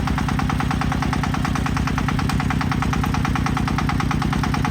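Tractor's diesel engine running steadily with a rapid, even knocking beat.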